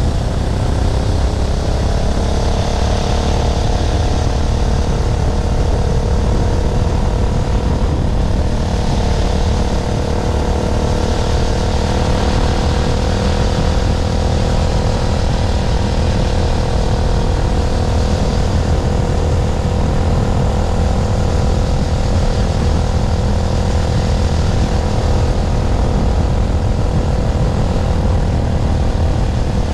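212cc single-cylinder four-stroke engine of a home-built motorbike running hard at speed. Its pitch climbs a little in the first couple of seconds, then holds steady at high revs over a heavy low rumble.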